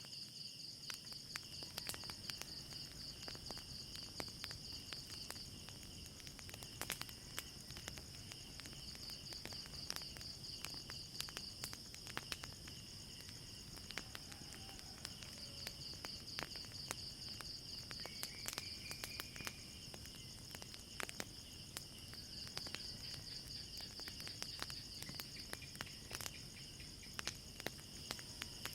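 Crickets chirping in a steady, pulsing night chorus, with the sharp pops and crackles of a burning fire scattered irregularly throughout.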